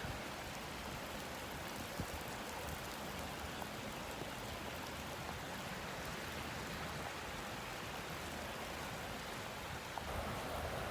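Heavy rain pouring steadily, a continuous even hiss.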